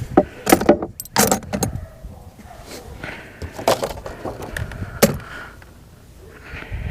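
Small metal screws and parts clinking and rattling as they are sorted through by hand, with a burst of sharp clinks in the first two seconds and a few more later.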